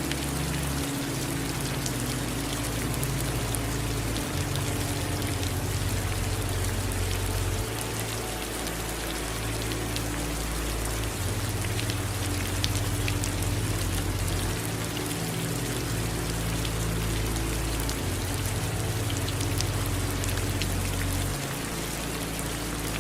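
Steady rain, with many separate drop ticks over an even hiss. Under it runs a low hum that shifts every few seconds.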